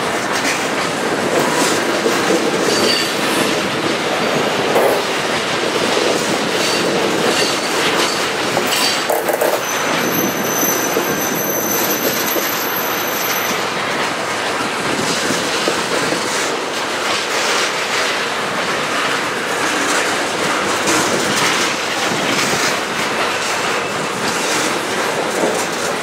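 Freight train of steel tank cars rolling past close by: a steady rumble and clatter of wheels on the rails, with scattered clicks from wheels over rail joints. Near the middle a thin high wheel squeal sounds for about four seconds.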